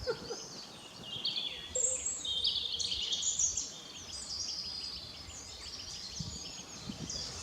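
Songbird singing in woodland: a run of quick, high chirps and trills starting about a second in and lasting a few seconds, with fainter calls after.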